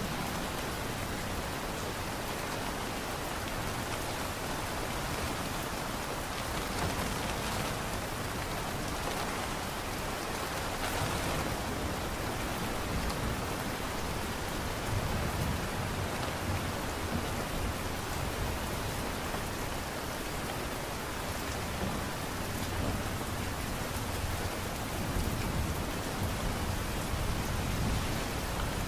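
Light rain falling steadily, a continuous even hiss.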